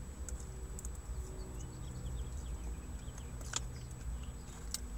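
A person chewing and licking their lips between bites, with small scattered mouth clicks and smacks over a low steady hum.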